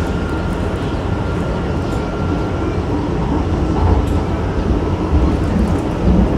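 Steady low rumbling noise, with a faint steady high tone through the first half.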